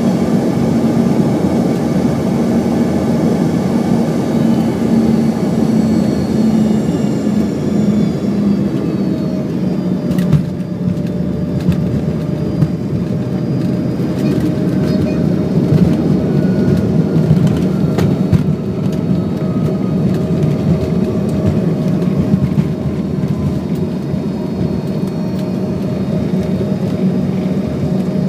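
Airliner cabin noise during descent: a loud, steady drone of jet engines and airflow, with engine tones slowly falling in pitch.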